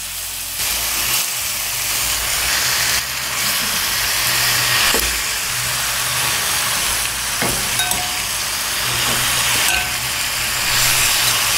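Seared beef pieces sizzling steadily as they fry in a cilantro-and-chili sofrito in a metal pot. A couple of light clicks of the cooking utensils against the pot.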